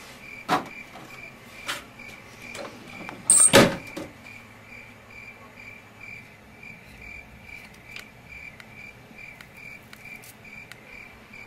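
A high, even chirp repeating about two and a half times a second, like a cricket. There are a couple of sharp clicks in the first two seconds and a loud clatter about three and a half seconds in.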